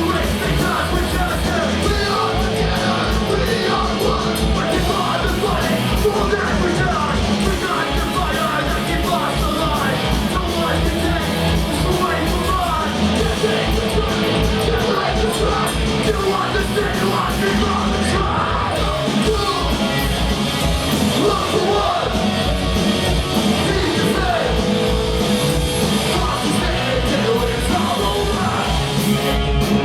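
Punk rock band playing live: loud distorted electric guitars, bass and fast drums, with yelled vocals.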